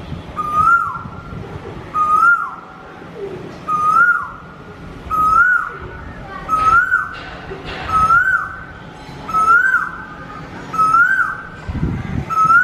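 Asian koel calling over and over: a short whistled note that rises and then drops, repeated about every second and a half, nine times in a row.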